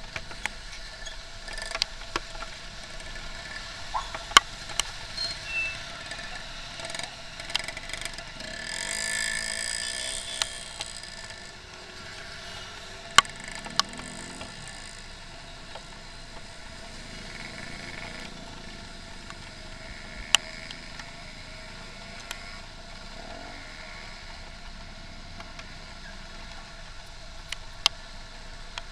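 Motorcycle riding through rainy traffic: a steady engine-and-road hum with scattered sharp clicks. A louder rush with more hiss comes about eight seconds in and fades out near eleven seconds.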